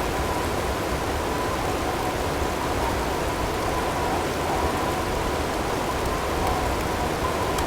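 Blizzard ambience: a steady rush of storm wind and driving snow or hail, with a faint, slightly wavering whistling tone over it.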